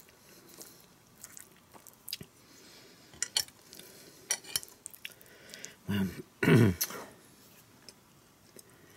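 A person chewing a mouthful of food, with soft scattered mouth clicks and small ticks. About six seconds in come two short, low vocal sounds from the throat, close together.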